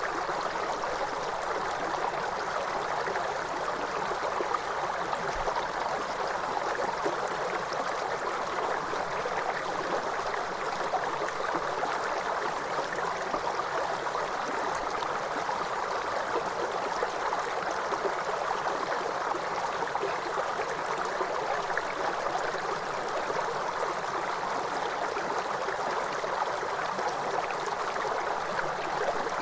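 Waterfall: a steady, unbroken rush of falling water, strongest in the middle range, with no change in level.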